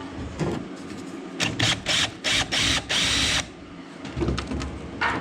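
Power drill run in several short bursts, about five in two seconds, backing out tight screws from boat rail hardware.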